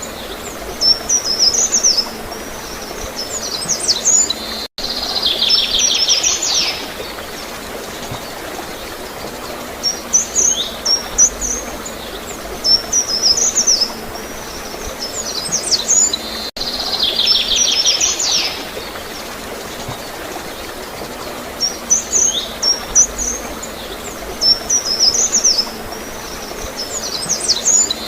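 Songbirds chirping in short high notes, with a fast trill of rapid even notes lasting about two seconds, twice, over a steady background of flowing water. The audio repeats as a loop about every twelve seconds.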